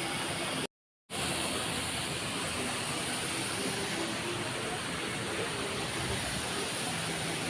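Steady outdoor background noise with a strong high-pitched hiss. It cuts to silence for a moment just under a second in.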